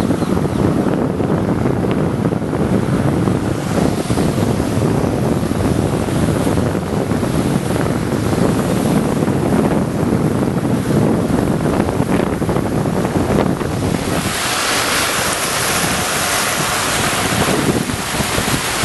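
Loud, steady rushing noise, deep and rumbling at first, turning to a brighter hiss about fourteen seconds in.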